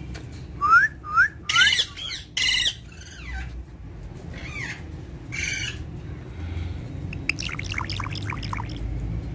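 Ringneck parrot squawking and calling: a quick run of short rising calls and loud harsh squawks in the first three seconds, two more squawks around five seconds in, then a rapid burst of short chattering notes near the end.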